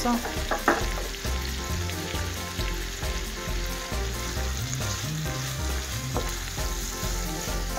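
Chopped onion and grated carrot sizzling steadily as they fry in oil and beef fat in a frying pan, with a wooden spatula scraping through them now and then.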